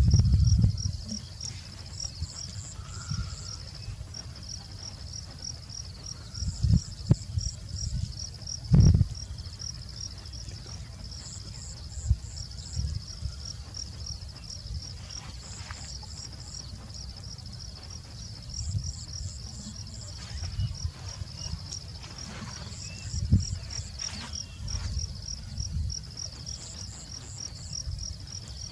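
Insects chirping steadily in a fast, even pulse, joined every few seconds by a short run of higher-pitched chirps. Occasional low thumps and rumbles sound underneath, the strongest about nine seconds in.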